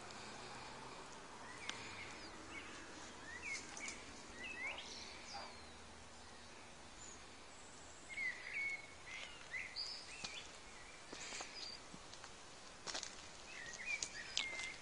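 Faint songbird chirps in several short clusters of quick rising and falling notes, with a few soft clicks and scrapes between them.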